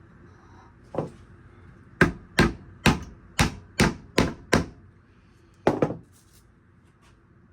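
Sharp knocks on wood: a single knock, then a quick run of seven over about two and a half seconds, then a double knock near the end. The glued perches are being tapped into the wooden bird feeder.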